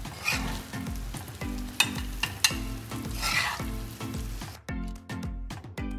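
Chicken chaap sizzling in ghee on a tawa, with a few sharp clicks of a spatula against the pan as it is dished out. The sizzling stops about four and a half seconds in, leaving background music.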